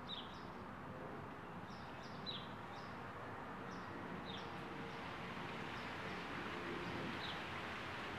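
Faint background bird chirps: short, high, falling notes about once a second, over a steady background hiss.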